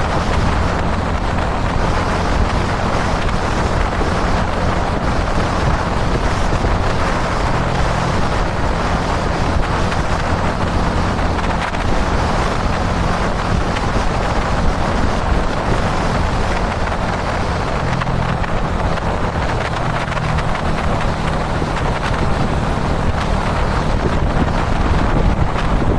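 Kawasaki Dominar 400's single-cylinder engine running steadily at expressway cruising speed, under heavy wind rush on the microphone.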